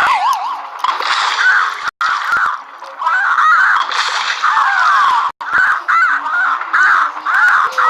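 Squawking bird calls, many short curved ones in quick succession, with a few longer falling calls about halfway through. The sound cuts out completely for an instant twice.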